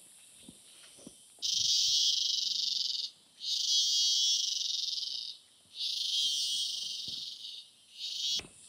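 Cicadas (chicharras) calling in loud, high buzzing phrases of about one and a half to two seconds each, four in a row with short gaps between. A fainter, steady high insect hiss runs underneath.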